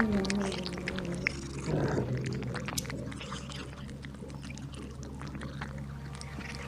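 A drawn-out animal call, falling slowly in pitch and fading out about a second in, followed by scattered faint clicks over a steady low hum.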